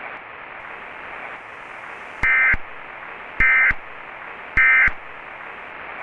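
Emergency Alert System end-of-message signal: three short, identical blasts of SAME digital data tones about a second apart, over a steady hiss.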